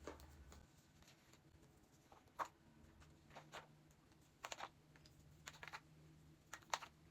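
Faint, scattered clicks and rustles of items being handled and packed into a bag, about a dozen short sounds at irregular intervals.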